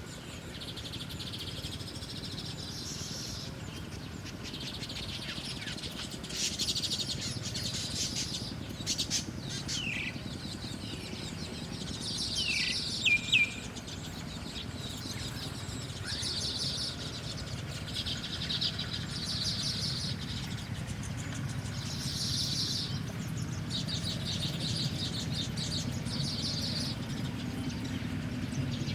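Small birds chirping, with repeated high, buzzy chattering phrases and a few short, sharp downward-sliding chirps about ten and thirteen seconds in, over a steady low background hum.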